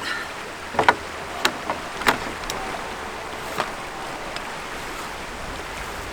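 A handful of sharp clicks and knocks, the loudest pair about a second in and another about two seconds in, over a steady rushing noise.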